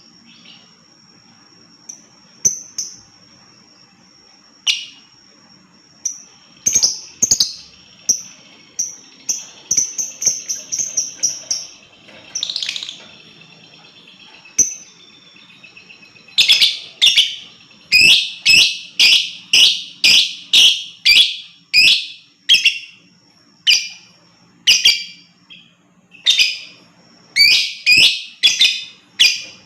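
Lovebird calls: scattered shrill chirps, a quick chattering run of chirps about ten seconds in, then loud shrill calls about once a second through the second half.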